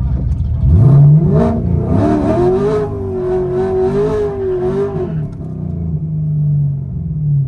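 C7 Corvette Stingray's 6.2-litre V8 with a full aftermarket exhaust, accelerating hard. The pitch climbs from under a second in, dips briefly about a second and a half in, then rises to a high, held note for about two seconds. It falls away about five seconds in and settles into a lower, steady drone.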